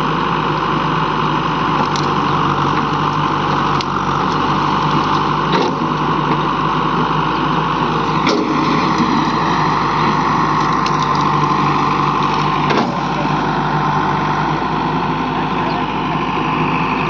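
Diesel engine of heavy farm or earthmoving machinery running steadily, with a few short clanks.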